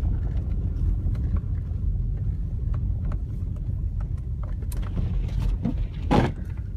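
Car driving, heard from inside the cabin: a steady low rumble, with a few faint clicks and a short, louder burst of noise about six seconds in.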